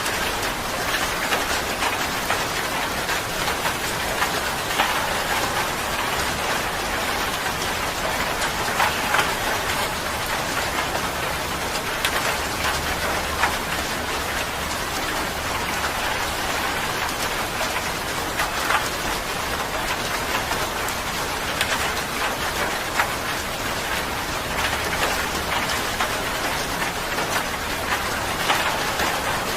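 Steady rain falling on a surface, an even hiss scattered with the ticks of individual drops.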